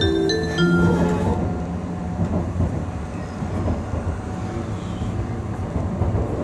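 Steady running noise of an N700 series Shinkansen heard from inside the passenger car: a low rumble with a faint hiss as the train rolls along. The last notes of the onboard chime melody fade out about a second in.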